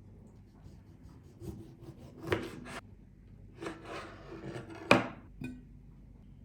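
Several short rubbing scrapes and clicks of objects being handled, with one sharp knock about five seconds in.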